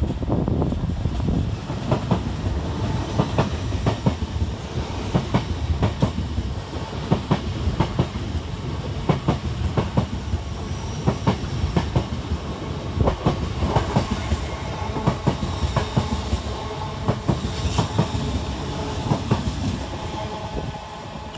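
LNER Class 801 Azuma electric train passing at speed close by: a steady rumble with a long run of sharp wheel clicks over rail joints and pointwork.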